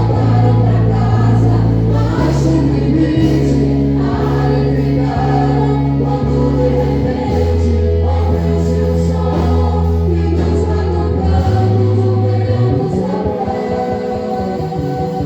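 Gospel praise music: voices singing together over long held bass notes that change chord every few seconds.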